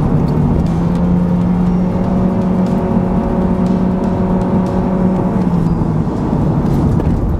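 Cabin sound of a 2009 Honda Civic Hybrid cruising on a wet road: its 1.3-litre four-cylinder engine drones at a steady pitch, held at constant revs by the CVT, over a continuous hiss of tyre and road noise. The steady drone fades out about six seconds in.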